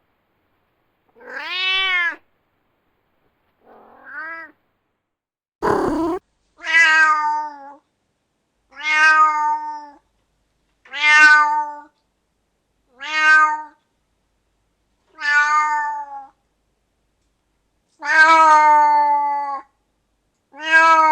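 Domestic cat meowing over and over, nine separate meows about two seconds apart, most of them alike and dropping slightly in pitch at the end. A short harsh noisy burst comes about six seconds in.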